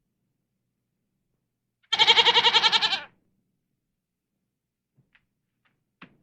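One loud, quavering bleat about a second long, starting about two seconds in, followed by a short faint call near the end.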